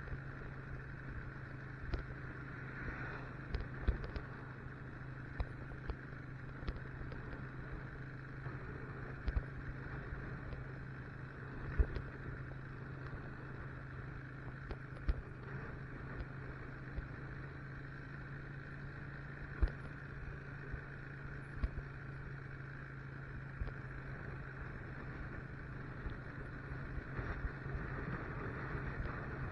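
Motorcycle engine running steadily at cruising speed, with wind noise on the microphone and scattered sharp knocks throughout.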